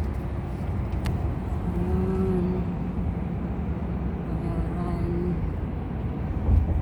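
Steady low rumble of a motor vehicle running, with a faint steady tone in the middle, a light tick about a second in and a thump near the end.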